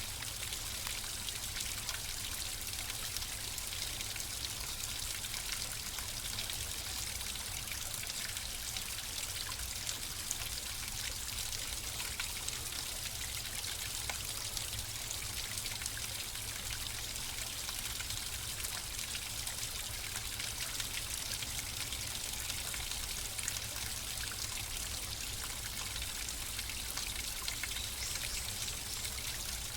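Flowing water running steadily, a continuous trickling and splashing like a small stream, with no change.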